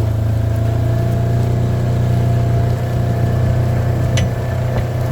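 Vehicle engine running steadily at an even speed, with a faint click about four seconds in.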